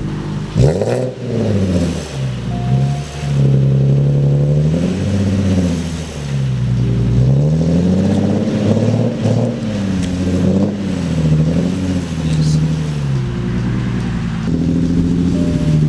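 Car engine revving up and down repeatedly, its pitch sweeping up sharply at first and then rising and falling every second or two.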